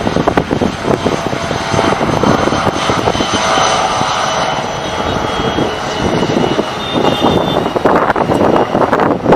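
An airliner's engines running loud as the plane passes close, a steady roar with a high whine over it that is strongest in the middle of the clip.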